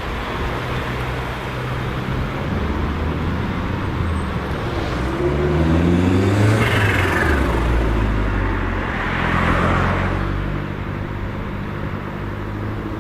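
Cars driving off with engines accelerating; the loudest one rises in pitch as it revs past about halfway through, and a second swell follows near the end.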